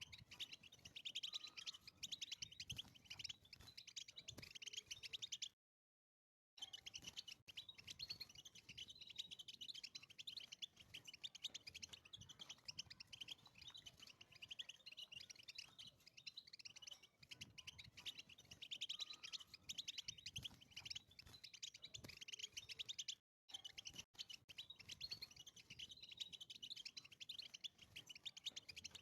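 European goldfinch singing: a fast, continuous twittering of chirps and trills, broken twice by a moment of dead silence.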